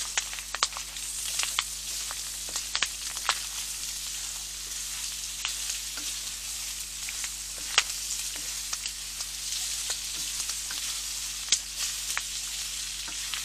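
Pork strips and onion frying in oil in a hot pan: a steady sizzle broken by a few sharp clicks and pops as the food is stirred.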